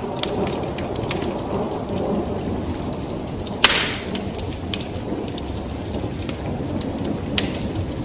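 Wood fire burning in a fireplace: a steady low rumble of flames with frequent sharp crackles, and one louder pop a little before halfway through.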